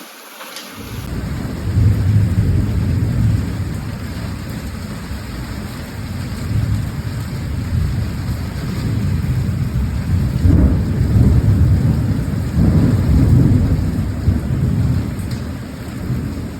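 Thunder rumbling in long, low rolls over steady rain. The rumble swells about two seconds in, and again twice in the last third.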